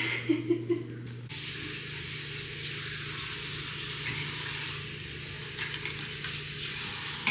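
Water running steadily from a tap or shower, turned on about a second in and shut off at the end, likely to wash feet.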